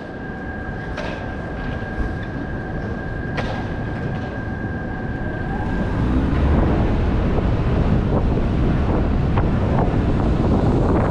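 Steady rumble and wind noise of a moving vehicle, getting louder about six seconds in. A steady high whine and a few sharp clicks are heard during the first half, and the whine stops when the noise rises.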